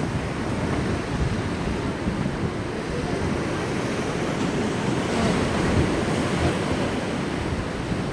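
Sea waves breaking and washing on the shore, a continuous rushing surf, swelling a little louder about two-thirds of the way through, with wind buffeting the microphone.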